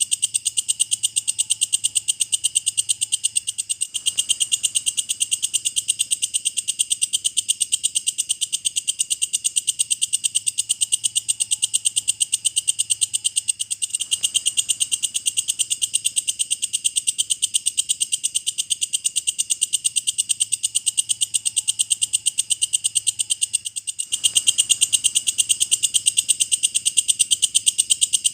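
Walang kecek katydid calling: a fast, steady train of sharp, high chirps, about four or five a second, broken by brief pauses every ten seconds or so.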